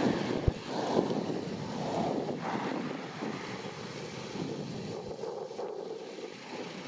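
Steady rushing noise of wind on the microphone, with a brief low thump about half a second in.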